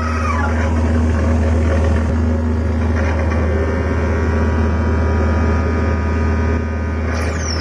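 Experimental electronic drone music: a loud, steady deep hum with several held higher tones layered above it in the middle of the passage.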